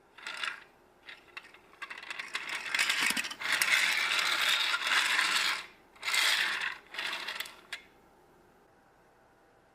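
Small hard plastic building-block pieces clattering and clicking as they are handled. The bursts come in a quick run, busiest in the middle, and stop about eight seconds in.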